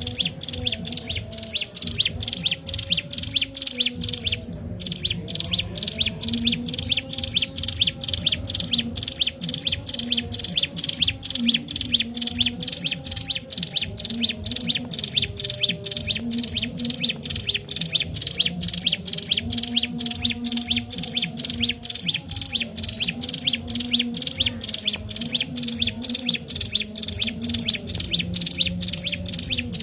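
Ciblek gunung (a prinia) calling nonstop in rapid repeated high chirps, about three a second, with one brief break about four seconds in.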